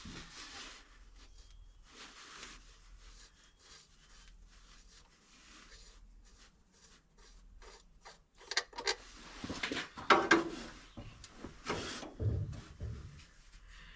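Workshop handling noises: quiet scraping and rubbing with small ticks, then a run of louder knocks and clatters from about eight seconds in, as of tools and parts being rummaged through and set down.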